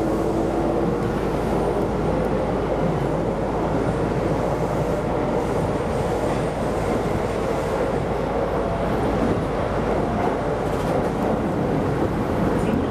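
Keisei Line rapid electric train running on the rails, heard from inside the leading car: a steady rumble of wheels on track. A faint motor whine rises in pitch through the first second or so, as the train gathers speed, then holds steady.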